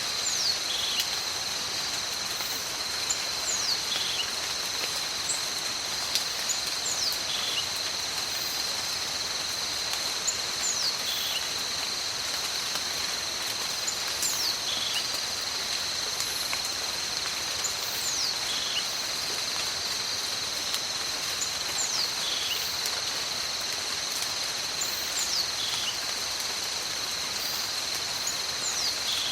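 Steady tropical rain with a constant high insect trill. A short whistled call falls in pitch and repeats about every four seconds.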